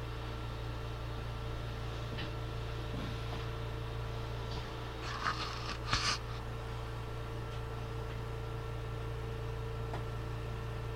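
Steady low mechanical hum with a faint constant tone, and a few brief rustling clicks about five to six seconds in.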